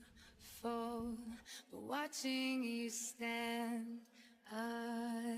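Background music: a slow song in which a woman sings long, held notes one after another, with short breaks between phrases.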